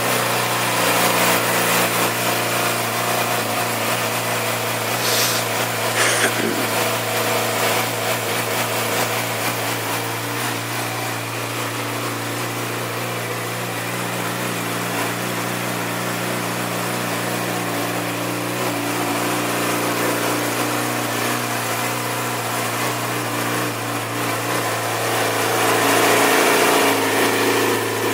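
2010 Yamaha YZF-R6's 600 cc inline-four engine idling steadily just after start-up, getting slightly louder in the last couple of seconds.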